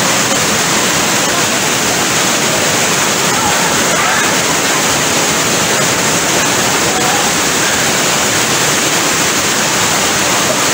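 Steady rush of water pouring over low rocky cascades of a river waterfall. Faint voices sound underneath.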